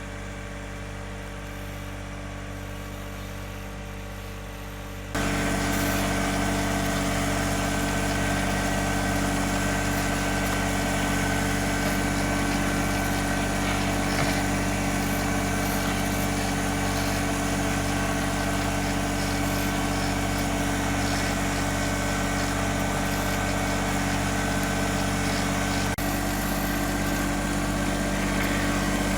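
John Deere 1026R compact tractor's three-cylinder diesel engine running steadily under load while pulling a plough. The sound jumps suddenly louder about five seconds in and then holds steady.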